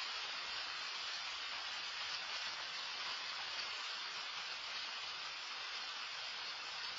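Loud rain falling, a steady even hiss with no breaks.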